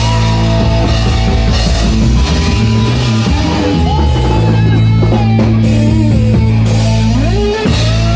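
Live rock band playing loud: electric guitar and bass holding low chords for several seconds at a time over a drum kit, with repeated cymbal crashes.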